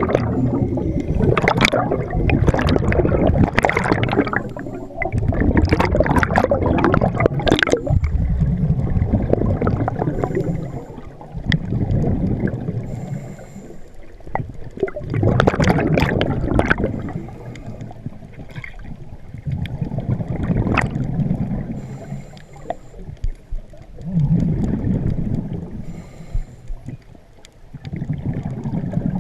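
A scuba diver's exhaled air bubbling out of the regulator, heard underwater, in bursts of a second or two about every four to five seconds with each breath out.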